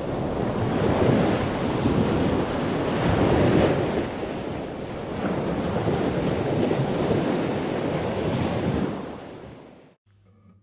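Wind blowing across the microphone over the wash of sea waves, fading out near the end.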